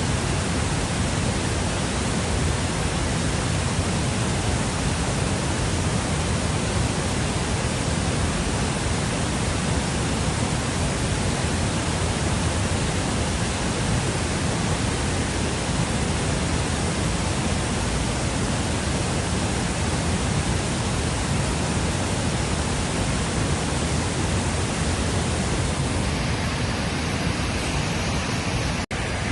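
Steady rushing noise of fast-flowing river water, unchanging in level, with a brief drop-out near the end.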